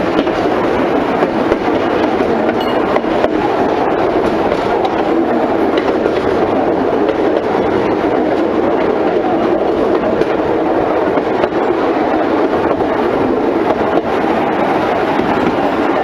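Narrow-gauge train running along newly laid, unballasted track: a steady, dense running noise of wheels on rail, with no clear beat.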